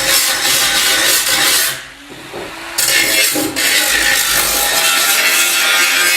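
Harsh, steady abrasive grinding or rasping from a tool working a surface. It stops briefly about two seconds in and starts again just before three seconds.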